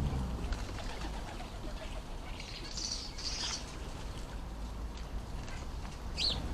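Small garden birds calling: a short cluster of high chirps about three seconds in, and a single quick sweeping chirp near the end.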